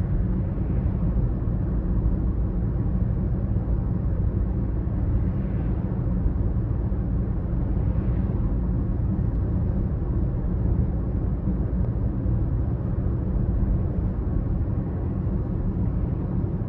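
BMW X5 30d's three-litre straight-six diesel engine running steadily while the car is driven at an even pace, a constant low rumble with no revving.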